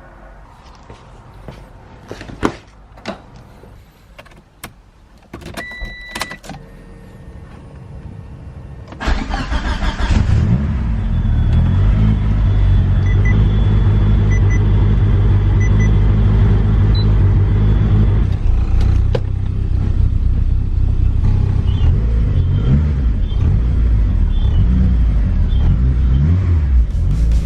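Clicks and jangling keys for the first few seconds, then the big-turbo DSM's turbocharged 4G63 four-cylinder cranks and fires about nine seconds in and settles into a loud, steady idle.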